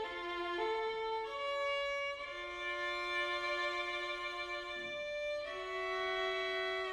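Background music: a slow violin melody of long held notes, changing every second or so, with one note held for about three seconds in the middle.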